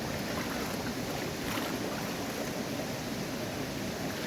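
Floodwater of a swollen river rushing steadily, an even noise with no breaks.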